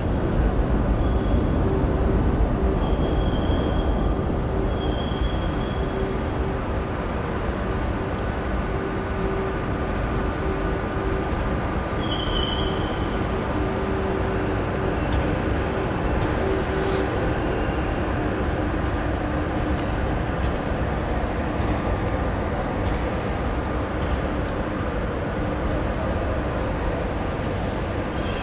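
Double TGV Duplex high-speed train set rolling slowly in along the station platform as it arrives. A steady low rumble and hum, with a few brief high-pitched squeals in the first half.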